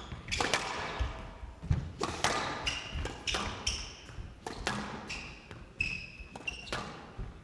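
Squash rally: a rubber squash ball struck hard by rackets and smacking the walls, a sharp hit every second or so at an uneven pace, with brief high squeaks of court shoes on the wooden floor.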